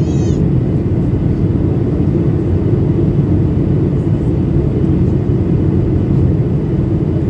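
Steady in-flight cabin noise of a Boeing 737-800 during descent: airflow and CFM56-7B engine drone heard from a window seat, a dense, even low rumble. A brief high chirp sounds at the very start.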